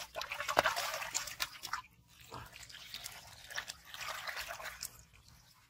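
Water splashing and dripping in a quick, irregular run of small splashes and clicks, loudest in the first two seconds and easing toward the end.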